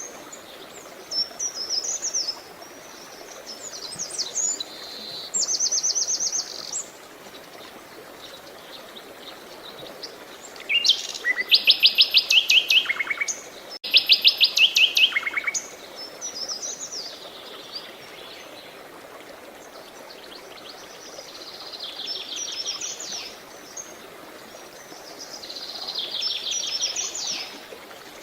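Several songbirds singing in turn, with chirps, whistled phrases and fast rattling trills that are loudest about halfway through, over a steady hiss of running water.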